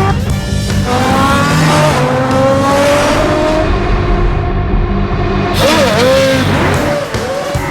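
Car engine revving and accelerating hard, its pitch climbing and dropping back several times as it shifts up through the gears, with brief tyre squeal near the end. A music track with a steady beat runs underneath.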